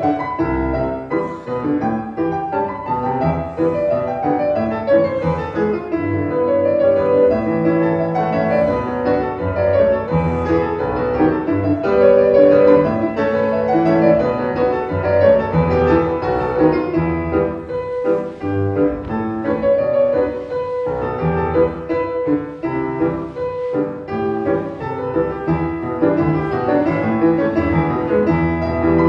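Piano music, a steady stream of notes with no singing or speech.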